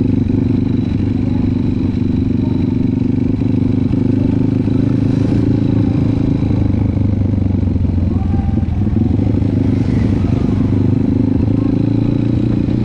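Trail motorcycle engine running steadily at an even pitch.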